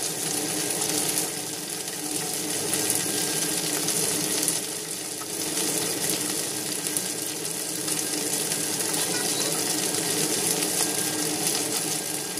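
Chicken wings frying in a stone-coated frying pan, a steady sizzle with fine crackling.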